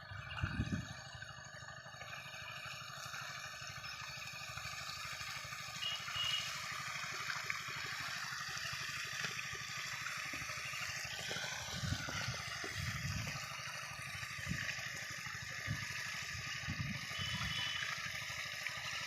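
Water pouring and gurgling steadily as the chilli garden is watered from the pump, with a few short low bumps along the way.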